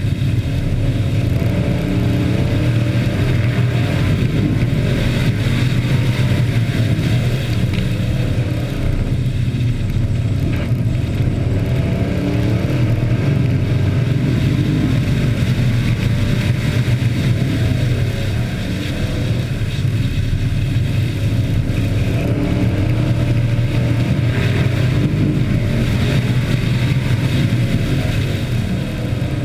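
Engines of hobby-class race trucks running hard around an oval track, a loud steady engine sound with pitch wavering up and down as they accelerate and lift; the sound eases briefly about two-thirds of the way through.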